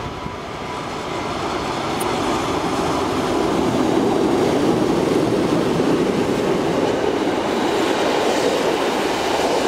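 Freight train headed by two Swedish Rc4 electric locomotives passing close by: a steady rumble of wheels on the rails that grows louder over the first few seconds as the locomotives come alongside, then holds.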